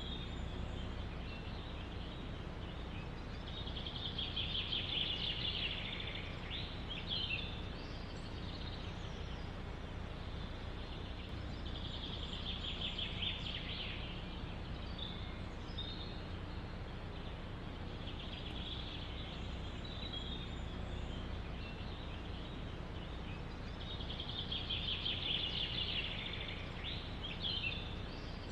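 A songbird singing the same fast, high trill of about two seconds again and again, every six to eight seconds, each trill followed by a few short notes. Under it runs a steady rush of wind through the forest.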